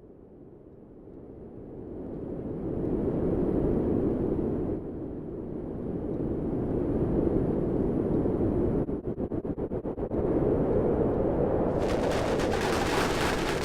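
A low, dense rumble that swells up from silence, with a rapid flutter about nine seconds in and a hissing crackle joining it near the end.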